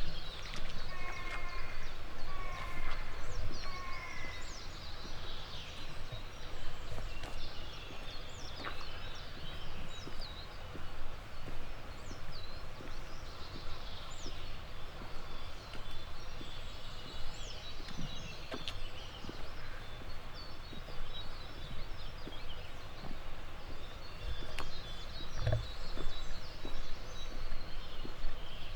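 Several wild birds singing and chirping, with short whistled notes and quick rising and falling calls throughout, over a steady low outdoor background noise.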